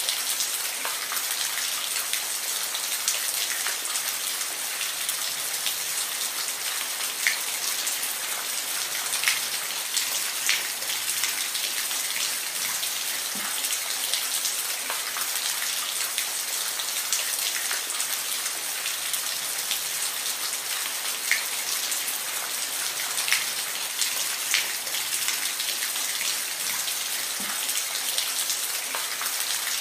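Steady rain, an even hiss with individual drops ticking sharply on a surface every second or so.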